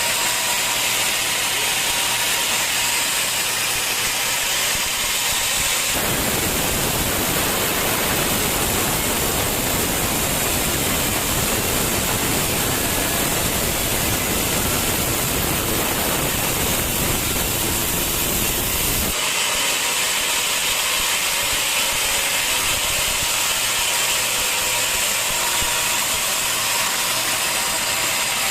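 Sawmill saw machinery running steadily with a loud hissing noise. From about six seconds in to about nineteen seconds in the sound turns fuller and heavier in the low end, then returns to the thinner hiss.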